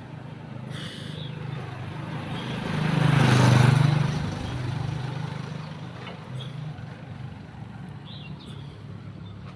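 A motor vehicle passes by, growing louder to a peak about three and a half seconds in and then fading, over a steady low engine hum. A bird chirps briefly a couple of times.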